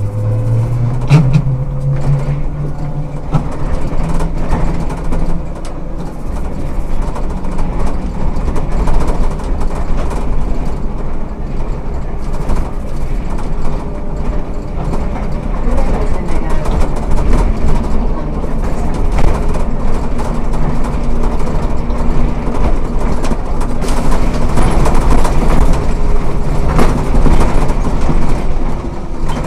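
Ikarus 280T articulated trolleybus with GVM traction equipment running along the road: a steady low rumble with scattered clicks and rattles. A low motor hum rises in pitch over the first couple of seconds, then holds.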